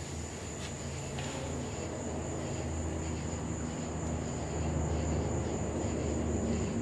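Forge running with a steady low drone, with a few faint light clicks in the first seconds.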